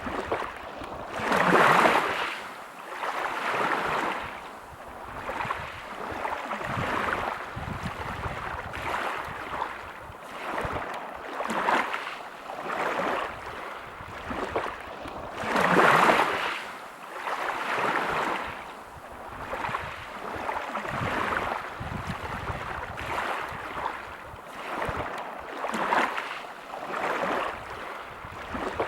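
Waves breaking on a pebble beach, each surge and backwash rising and fading every two to three seconds, with the largest swells about two seconds in and about halfway through.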